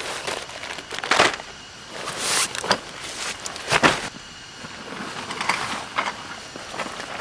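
Irregular rustling and crinkling with a few knocks and thuds, as of camping gear being handled, with a short hissing swish just past two seconds in.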